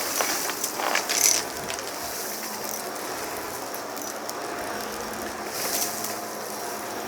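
Vacuum cleaner running, a steady motor whine over a rush of airflow, with rattles and clicks as it is pushed over a rug. It grows louder in strokes about a second in and again near the end.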